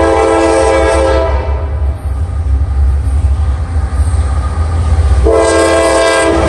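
Diesel freight locomotive passing close at speed, sounding its air horn as a chord of several tones: one blast that cuts off about a second in and a second blast near the end, over a steady low engine rumble and rail noise.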